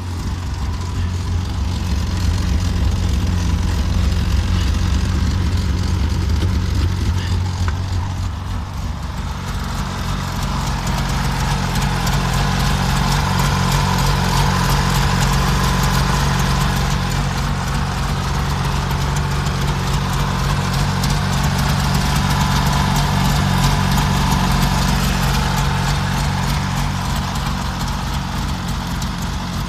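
Jawa Minor (Jawa 600) car's water-cooled two-cylinder two-stroke engine idling steadily, heard close to the open engine bay. Its tone shifts slightly about nine seconds in.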